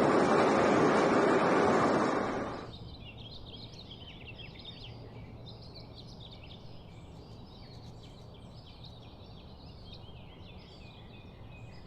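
A loud, even rushing noise fades out over about half a second, some two seconds in. It leaves many birds chirping over a faint hiss.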